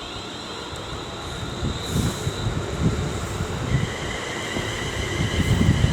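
Class 350 Desiro electric multiple unit pulling out of the station: a rumble that grows about two seconds in, with a high electric whine from its traction equipment and a further whine tone joining about four seconds in.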